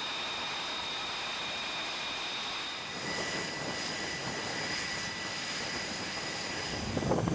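Jet engine running steadily: an even rushing noise with thin high whining tones over it, the whine changing pitch about three seconds in.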